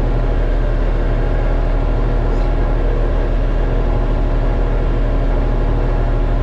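LS MT232 compact tractor's 32-horsepower diesel engine running steadily under heavy load while dragging a whole elm tree.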